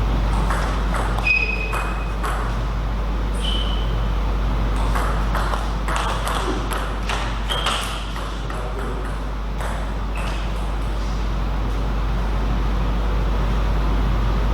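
Table tennis ball clicking sharply off bats and table in quick rallies, with a few short high pings. The clicks run for about the first ten seconds, then stop. A steady low hum sits underneath.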